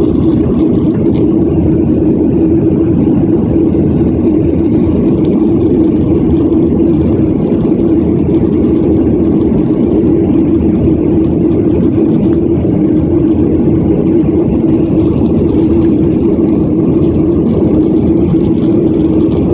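Steady jet engine and airflow noise heard inside the cabin of a Boeing 737-800 airliner in flight, with a constant low hum and no change in pitch.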